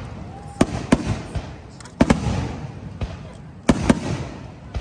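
Aerial fireworks shells bursting: sharp booms in quick pairs about a second in, at two seconds and near four seconds, each trailing off in a low rumble.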